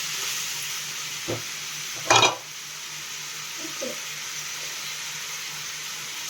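Chicken pieces sizzling steadily in hot oil in a pan as the water from the meat cooks off. There is a faint knock about a second in and a sharper, louder knock about two seconds in.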